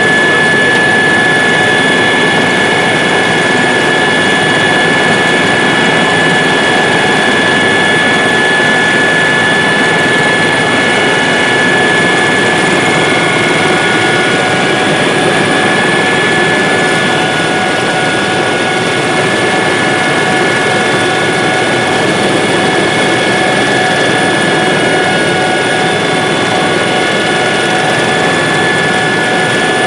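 Helicopter in flight: loud, steady rotor and engine noise with a steady high-pitched whine over it.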